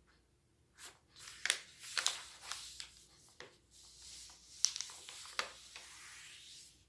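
Sheet of origami paper being handled and folded: rustling and crinkling with several sharp crackles, starting about a second in and dying away near the end.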